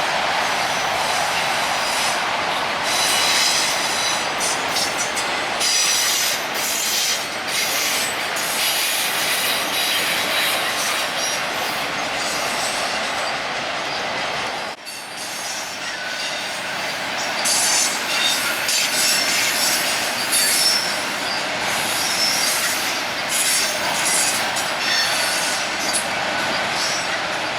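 Autorack freight cars of a vehicle train rolling past, their steel wheels running on the rails with high-pitched wheel squeals coming and going. The noise briefly drops about halfway through.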